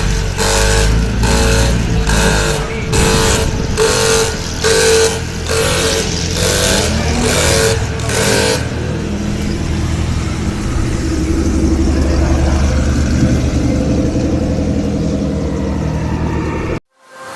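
A high-performance car or motorcycle engine revved in quick, evenly spaced blips, about two a second. About nine seconds in, this gives way to a steadier, lower engine drone, which cuts off abruptly near the end.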